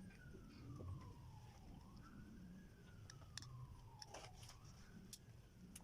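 A faint wailing siren, its pitch slowly rising and falling in long sweeps, with a few light clicks in the second half.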